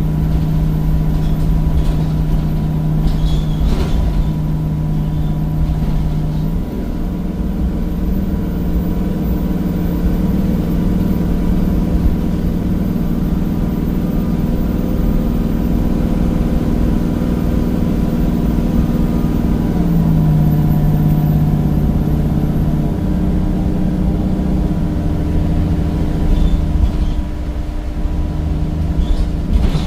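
Cummins diesel engine of a Temsa Avenue bus running under way through a ZF automatic gearbox. The engine note steps to a new pitch about six seconds in and again about twenty seconds in.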